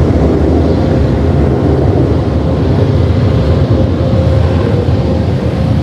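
Oasis Typhoon touchless car wash's onboard dryer blowing air over the car: a loud, steady rush of air over a low rumble, with a faint steady hum.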